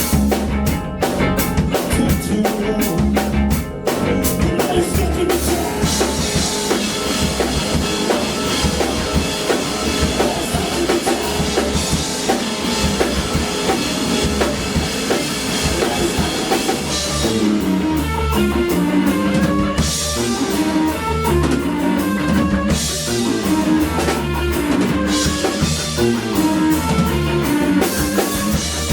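A rock band playing live, with drum kit, electric guitar and bass, a song built on pretty much one chord. Sharp drum hits open it, a steady cymbal wash comes in after about five seconds, and a moving bass and guitar line comes up in the second half.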